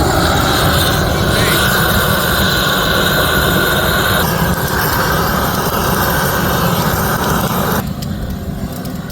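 A road vehicle driving, its steady engine and road noise filling the sound, cutting off sharply about eight seconds in.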